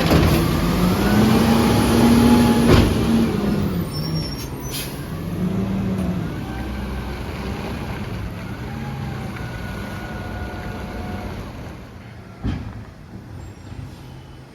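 Freightliner M2 garbage truck's diesel engine revving up and down several times, with a sharp click or air-brake sound about three seconds in. The engine sound then grows fainter.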